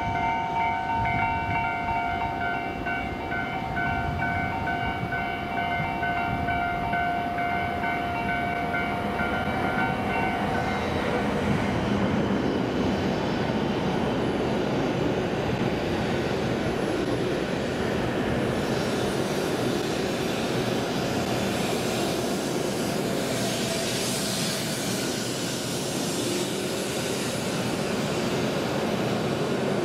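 W7-series Shinkansen train pulling slowly into the platform, a steady rumble of wheels and running gear. Several steady high tones sound over it for about the first ten seconds, then stop.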